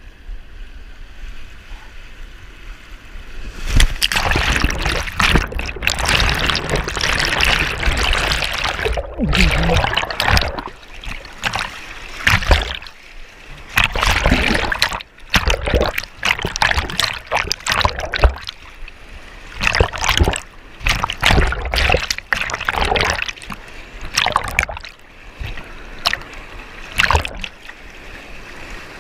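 Water splashing loudly around a canoe running a weir chute. It comes in irregular bursts, rising sharply a few seconds in and then breaking into shorter splashes every second or two.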